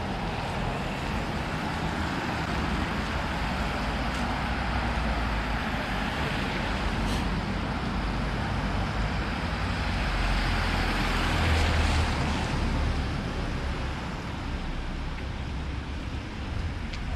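Street traffic passing, with low engine and tyre rumble; one vehicle goes by louder about eleven seconds in.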